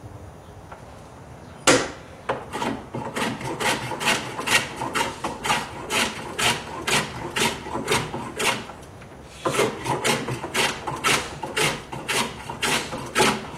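A hand plane shaving a hewn block of dense mesquite wood in quick, even strokes, about three a second, to true up its sides. The strokes come in two runs, with a short pause about eight seconds in.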